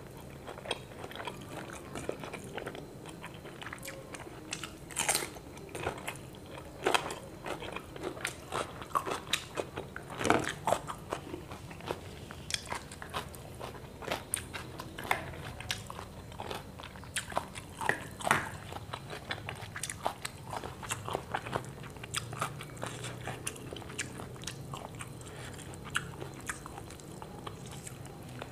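Close-miked mouth sounds of a man eating fried tilapia with rice by hand: irregular chewing, crisp crunches and wet mouth clicks throughout.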